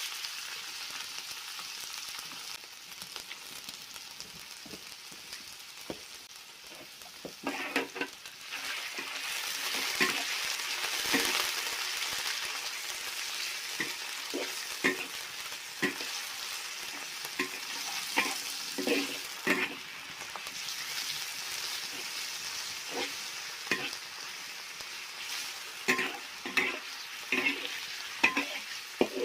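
Sliced pork sizzling in hot oil in a wok, with a spatula scraping and knocking against the wok as it is stir-fried. The stirring strokes come thicker from about seven seconds in.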